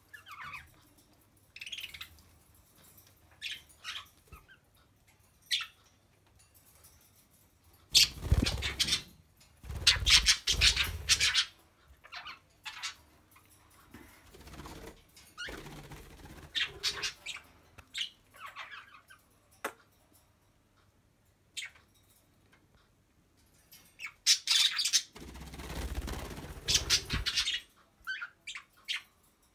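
Pet budgies and cockatiels chirping and squawking in short, scattered calls, with a few louder noises from the birds' cage or perches about eight, ten and twenty-five seconds in.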